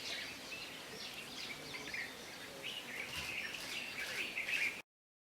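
Several small birds chirping and twittering in many short overlapping calls over faint outdoor background noise. The sound cuts off abruptly near the end.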